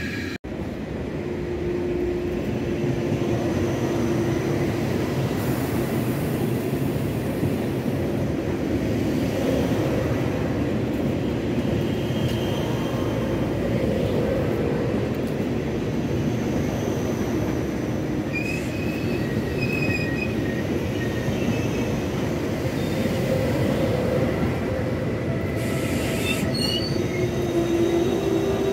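A train running on the tracks: a loud, steady rumble of wheels on rail, with short high squeals coming and going from the wheels. There is a brief drop to silence just after the start.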